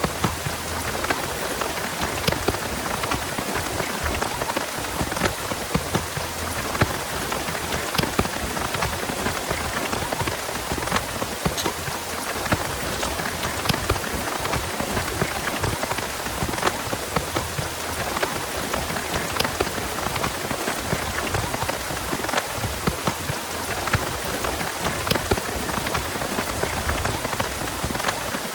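Heavy rain falling steadily, with many separate drops ticking sharply against nearby surfaces.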